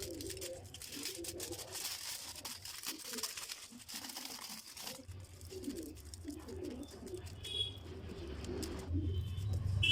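Repeated low cooing bird calls over a steady background hum and hiss.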